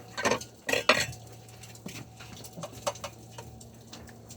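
Dishes and cutlery clattering: a few loud clanks in the first second, then lighter clinks, under a steady low hum.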